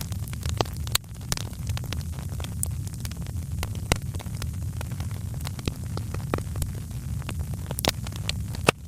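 Wood fire in a fireplace crackling, with frequent sharp pops and snaps of varying loudness over a steady low rumble of the flames.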